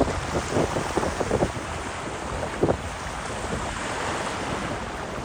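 Sea waves washing in steadily, with wind buffeting the microphone in short gusts, several in the first second and a half and one more a little before halfway.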